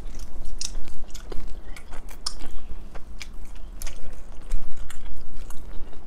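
Close-miked chewing and biting of burgers, with an irregular run of sharp wet mouth clicks, over a low steady hum.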